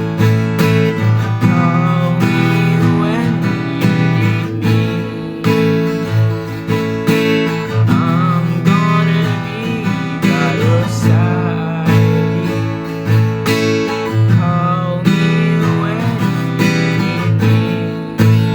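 Song with a strummed acoustic guitar keeping a steady rhythm under a wavering melody line that comes and goes.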